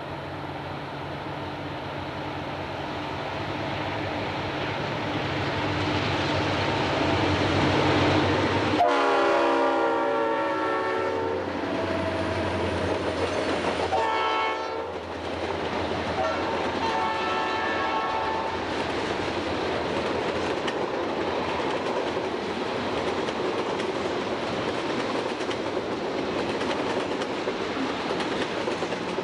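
Diesel freight locomotives approach with a steady engine drone that grows louder, then sound a multi-chime air horn three times, the middle blast short. The train's freight cars follow, rolling past with a steady clickety-clack of wheels on rail joints.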